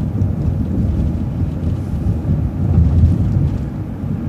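Low, steady rumble of a city transit bus, engine and road noise heard on board.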